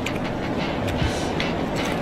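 Crunchy chewing and crackling bites of crisp fried eel, with irregular clicks over a steady rushing background noise.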